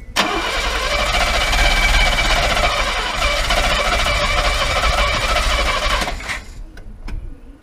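Freshly rebuilt Mercedes W114 engine being started: it turns over and catches, runs roughly for about six seconds, then dies away. This is a first start, with fuel only just reaching the engine after the fuel pump wire was reconnected.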